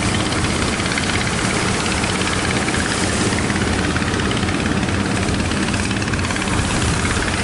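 Strong wind blowing steadily over the microphone, with a low steady hum underneath.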